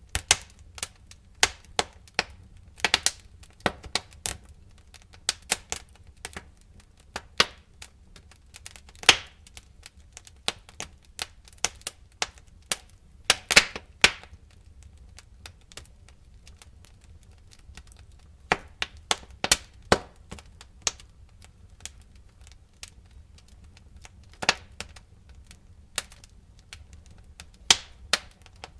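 Wood fire crackling: irregular sharp pops and snaps of burning wood at uneven intervals, some in quick clusters, over a low steady rumble of the flames.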